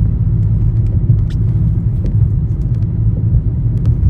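Road noise inside a moving car: a steady low rumble with a few faint clicks.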